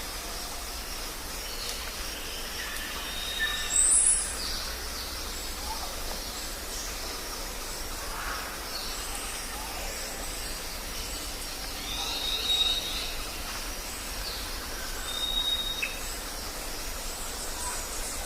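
Jungle ambience: a steady background hiss with scattered short, high bird whistles, and one loud high-pitched call about four seconds in.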